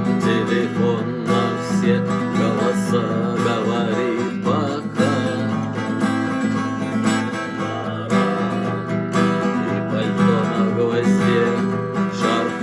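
Instrumental passage of a rock song: strummed acoustic guitar with a wavering melody line above it.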